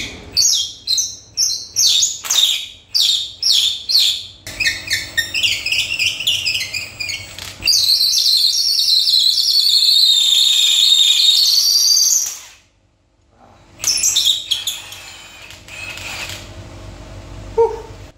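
Bird chirping and singing: a quick run of high chirps, a long warbling song about halfway through, a brief pause, then a few more chirps.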